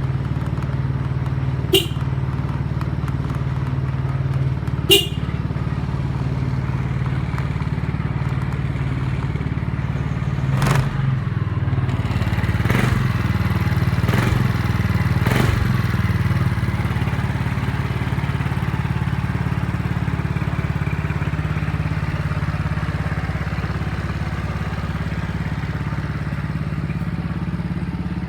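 Yamaha Majesty 250 scooter's single-cylinder four-stroke engine idling steadily, running smoothly as an engine in good order. Two sharp clicks come about two and five seconds in, and a few knocks about halfway through.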